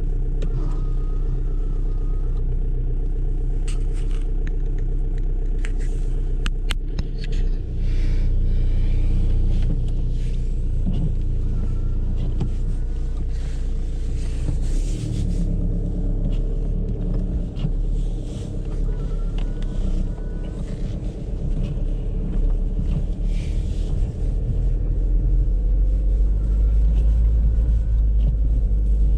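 Audi A3 on the move, heard from inside the cabin: a steady low engine and road rumble whose level shifts a few times, with a few scattered clicks.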